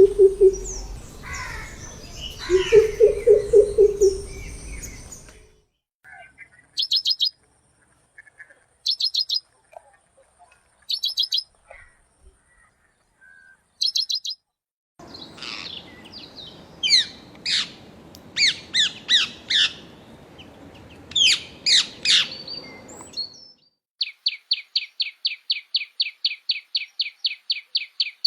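Bird calls from several different birds in turn. First a low, repeated hooting call mixed with chirps, then short high trills about every two seconds, then a run of quick downward-sweeping whistles, and near the end a fast, even series of high clicking notes.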